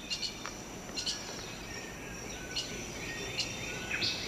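Rainforest ambience: short bird chirps and whistles over a steady high insect drone, with a run of quick downward-sweeping calls starting near the end.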